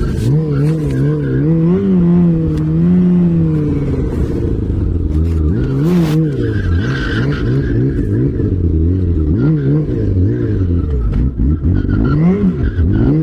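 Off-road vehicle engine revving up and down over and over as it is driven over rough ground, with the pitch rising and falling every second or two.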